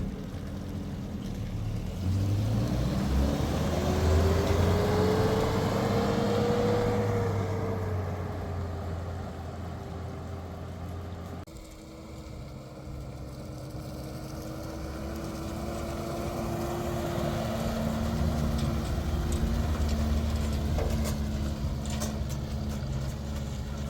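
A motor vehicle's engine running, rising in pitch a couple of seconds in as it speeds up and then holding fairly steady; the sound changes abruptly about halfway through.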